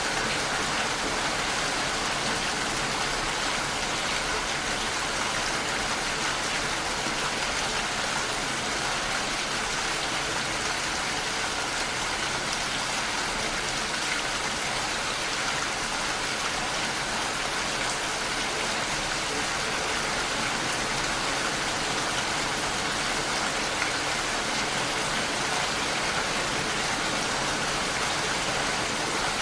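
Steady rain falling and pattering against a window pane, an even hiss with no breaks.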